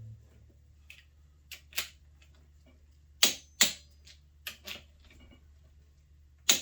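Click-type torque wrench clicking as it reaches the set torque on the engine's main-bearing cap nuts. The clicks are sharp and come mostly in pairs a fraction of a second apart, several times over.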